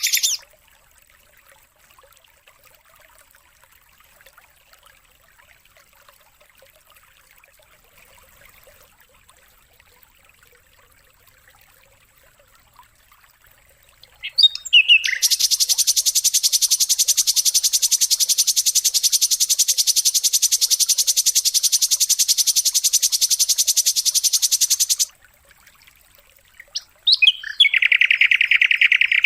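Songbird training recording: faint scattered chirps, then about halfway a loud, very fast, unbroken high trill lasting about ten seconds that cuts off suddenly. Near the end a second, lower-pitched rapid trill starts.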